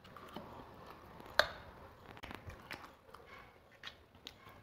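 Quiet chewing of Maggi instant noodles by two people eating, broken by scattered small clicks and one sharper click about a second and a half in.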